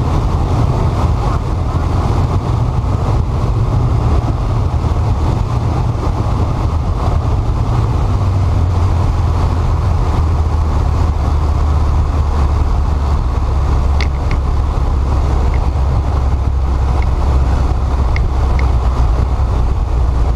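Light aircraft engine and propeller drone heard from inside the cockpit, steady and loud. The pitch steps down about eight seconds in as power comes back, with a few faint clicks near the end.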